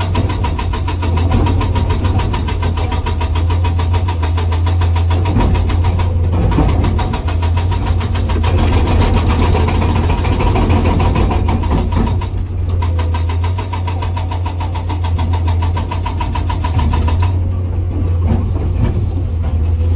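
Hydraulic rock breaker on a Komatsu PC200 excavator hammering hard rock in rapid, evenly spaced blows, with two short pauses, over the excavator's steady diesel engine. The hammering stops near the end, leaving the engine running alone.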